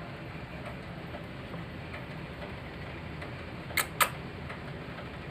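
Two sharp clicks about a quarter of a second apart, over a steady low background noise.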